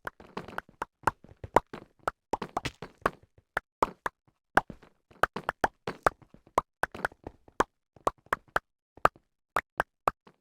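A quick, uneven run of short popping clicks, about three to four a second, each with a brief hollow pitch.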